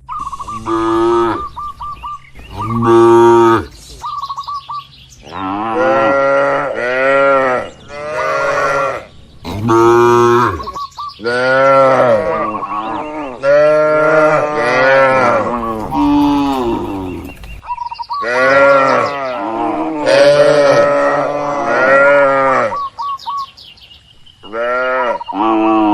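Several cattle mooing again and again, long calls that rise and fall in pitch and often overlap one another.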